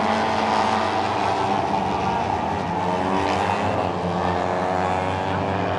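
Several J-GP3 race motorcycles, 250 cc four-stroke singles, running at high revs, their engine notes overlapping and rising and falling in pitch as the riders shift and pass.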